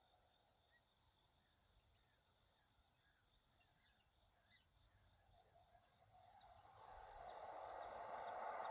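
Near silence with faint, regularly repeating high chirps, typical of insects. A soft hiss swells from about six seconds in.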